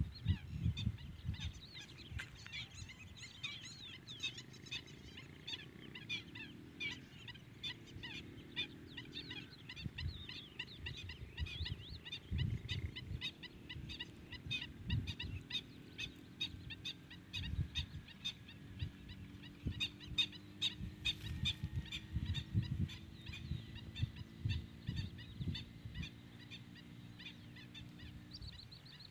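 Many small birds chirping and twittering in quick succession, with irregular low rumbles of wind on the microphone.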